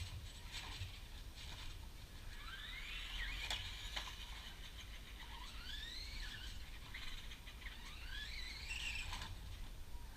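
Electric motor of an RC car whining up in pitch as the car accelerates, three rising runs of about a second each, with a few sharp clicks between them.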